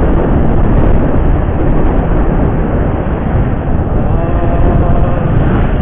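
Motorcycle riding at road speed: heavy wind rushing over the microphone with engine and road noise underneath. A faint steady tone comes in past the middle.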